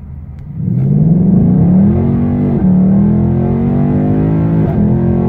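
Car engine accelerating hard, its pitch climbing, with two quick upshifts about two and a half and four and a half seconds in. It starts loud a little under a second in.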